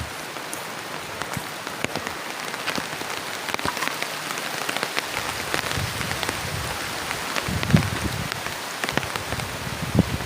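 Heavy rain pattering on a plastic tarp shelter: a dense patter of drop impacts, with a few heavier low thumps in the second half.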